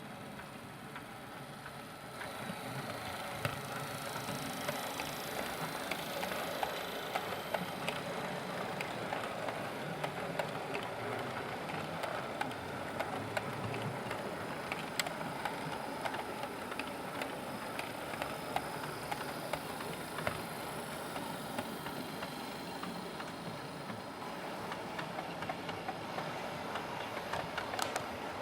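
OO gauge model train running on the layout's track: a steady motor whir with many small clicks from the wheels on the rails, getting louder about two seconds in.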